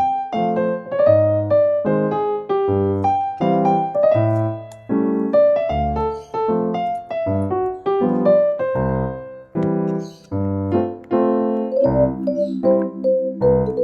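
Background piano music: a melody of struck notes over chords, playing continuously.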